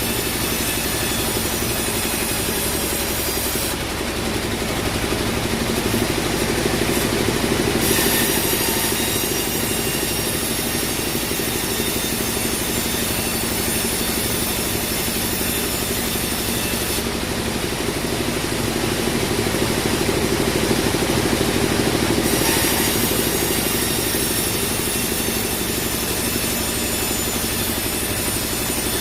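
Band sawmill running and sawing a teak log: a steady motor drone under a dense hiss from the blade. The high hiss drops away twice, for a few seconds each time, while the drone carries on.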